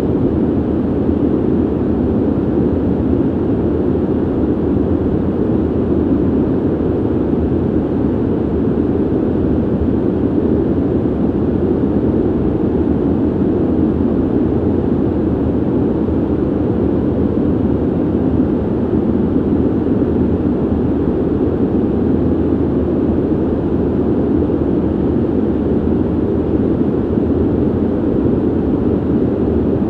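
Steady ventilation noise: an even, deep rush of moving air, muffled, with little hiss on top, unchanging throughout.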